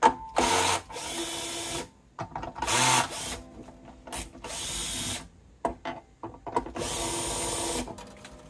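Acoustic guitar tuning machines being wound down to slacken the old strings for removal: five short bursts of whirring and ratcheting with pauses between them.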